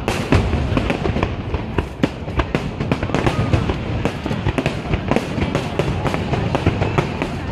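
Fireworks display: a dense, unbroken run of bangs and crackles from bursting aerial shells.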